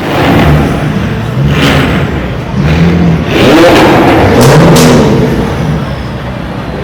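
Car engine revving, its pitch climbing and falling again several times in quick blips.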